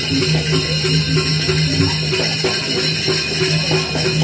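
Balinese gamelan playing: a repeating pattern of short metallic notes over a steady low tone.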